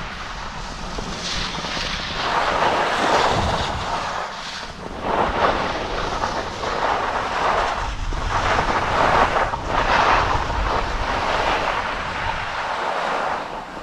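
Wind rushing over the microphone while skiing downhill, with skis hissing and scraping over the snow. The sound swells and fades every couple of seconds as the turns come.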